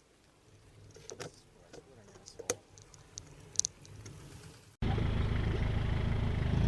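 Scattered faint clicks and ticks, then an abrupt cut near the end to loud, steady road and traffic noise with a low engine hum, typical of a bike-mounted camera riding among cars.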